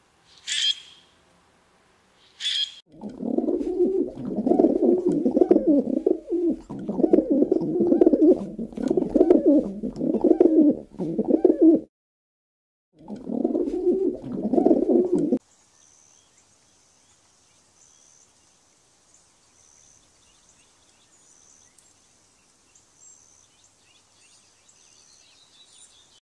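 Bird calls: two short high calls, then a long run of loud, low, fluttering calls broken by a brief pause, then faint high chirps.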